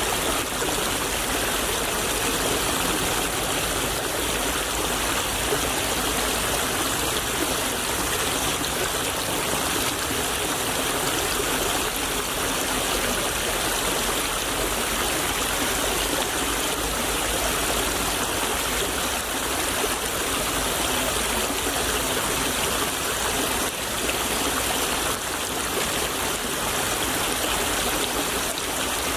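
Small stream babbling and trickling steadily over stones.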